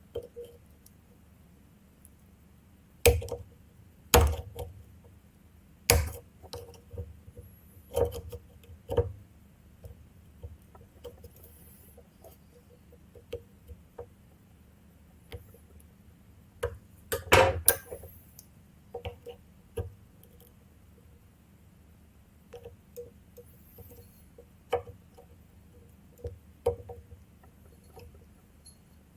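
Scattered clicks, taps and knocks of small hard parts and hand tools being handled while a motorcycle ignition switch is opened up, with a few louder knocks about three, four and six seconds in and a cluster of them near the middle.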